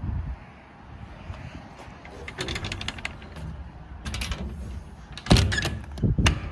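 Metal clicks and rattles, then two heavy thuds about five and six seconds in, the louder one first: a truck door being worked and shut, over a steady low rumble.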